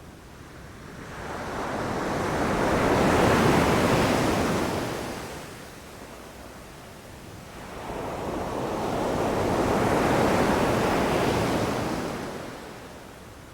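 Sea waves breaking on a beach: two waves swell to a rush and wash back, one peaking about three seconds in and the next about ten seconds in, with a quieter lull between them.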